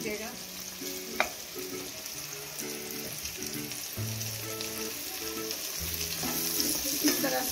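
Chopped capsicum and onion sizzling in hot oil in a non-stick kadai as they are sautéed and stirred with a spatula, with a single knock about a second in. Soft background music plays under it.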